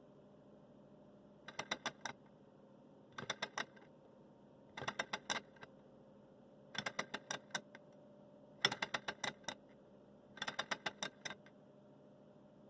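Six short bursts of rapid mechanical clicking, each lasting about half a second, coming roughly every two seconds over a faint steady hum.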